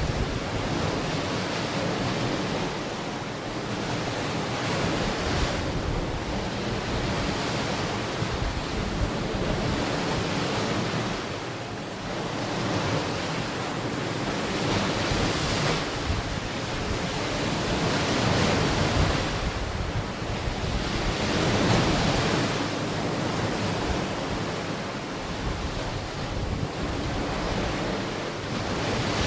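Ocean waves washing onto the shore, the surf swelling and ebbing every few seconds, with wind buffeting the microphone.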